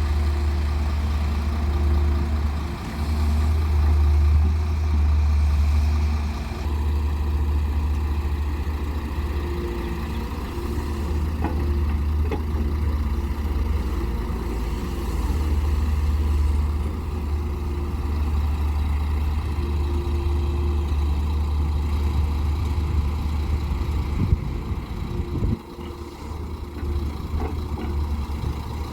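Heavy diesel engine of earthmoving machinery running steadily, with a sharp knock about three-quarters of the way through.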